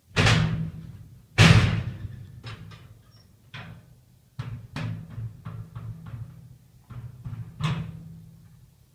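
A series of knocks and bangs: two loud ones in the first second and a half, then a run of lighter, quicker knocks, over a low hum.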